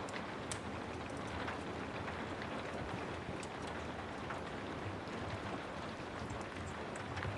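Steady rain, with scattered sharp crackles and pops from a wood fire throughout.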